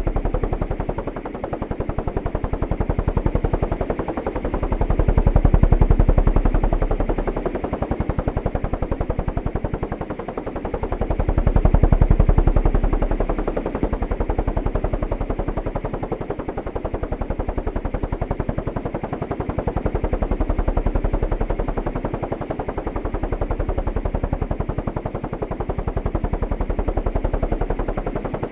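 Helicopter rotor chopping: a rapid, even thudding of the blades, swelling louder and softer a few times, with a thin steady high whine over it.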